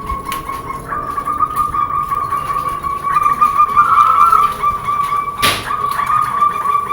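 A continuous, fluttering, high trill held near one pitch, stepping slightly higher and back a few times, used as a stimulator sound to get zebra doves to sing. A single sharp click about five and a half seconds in.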